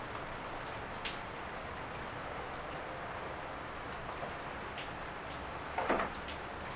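Steady rain falling on shrub leaves, an even hiss with a few individual drops ticking close by and one louder burst near the end.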